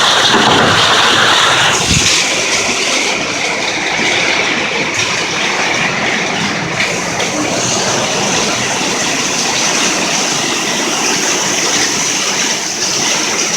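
Heavy rain pouring down in a steady downpour, a little louder in the first two seconds.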